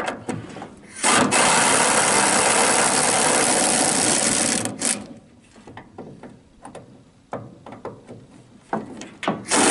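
A power tool runs steadily for about three and a half seconds, then stops. Scattered knocks and clicks from handling tools and parts follow, and the tool starts again just before the end.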